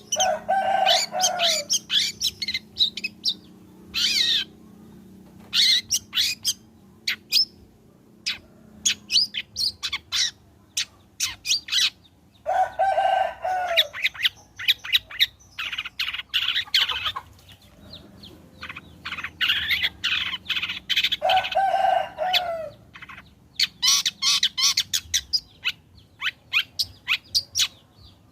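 Long-tailed shrike (cendet) in full song: fast runs of sharp chattering and chipping notes, broken by short gaps. A lower, harsher phrase comes three times, near the start, about 13 seconds in and about 22 seconds in.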